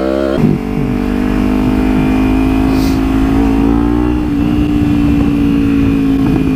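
Kawasaki Ninja 300's parallel-twin engine: a rev drops away about half a second in, then the engine runs at a steady pitch, rising slightly around four seconds in.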